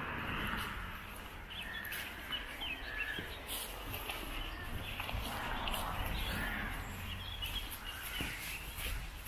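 Small birds chirping and singing in short phrases over a steady low rumble, with faint rustling footsteps through long grass.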